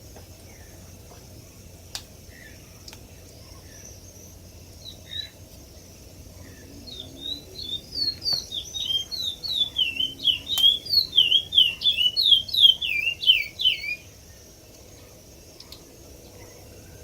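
A songbird singing a run of quick chirps that fall in pitch, starting about seven seconds in, growing louder and faster, then stopping suddenly.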